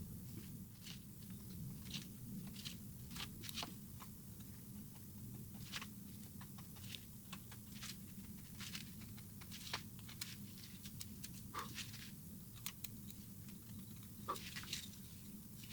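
Wood being carved by hand with a carving blade: short, crisp cuts and scrapes at an irregular pace, a couple a second, over a faint steady low hum.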